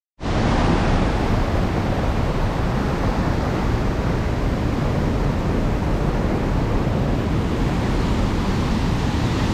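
Hot-spring waterfall cascading: a steady, dense rushing noise that cuts in abruptly just after the start.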